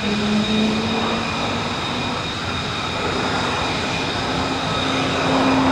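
Pilatus PC-21 turboprop aircraft flying past: a steady engine and propeller noise with a low hum that edges slightly up in pitch, growing louder near the end.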